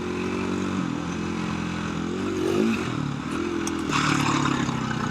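KTM 350 EXC-F dirt bike's single-cylinder four-stroke engine running under varying throttle on rough trail, the revs rising and falling, with a quick rev rise about two and a half seconds in. A steady hiss comes in near the end.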